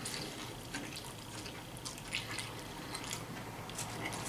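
Quiet, wet chewing of a mouthful of beef taco salad, with scattered small mouth clicks.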